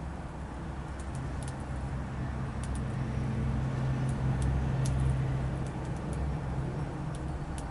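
Low steady rumble and hum of a motor vehicle passing on a road, growing louder to a peak about halfway through and then easing off, with scattered faint light clicks.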